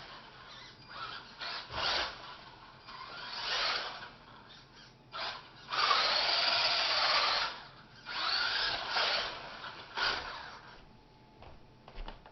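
Brushed electric motor and geared drivetrain of a 4WD RC rock-racer truck whirring in throttle bursts. There are several short bursts and one longer, louder run about halfway through, then it tails off near the end.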